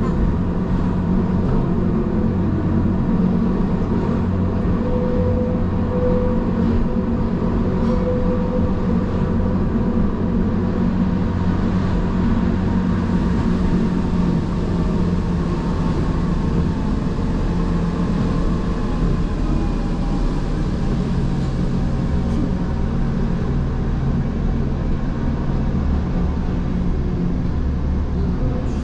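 Gornergrat Bahn electric rack-railway train running downhill: a steady hum and rumble from its drive and its wheels on the track.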